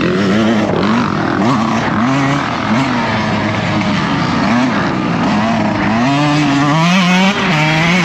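Dirt bike engine on a motocross track, the throttle opened and closed over and over so its pitch climbs and drops every second or so, with a longer climb and hold near the end.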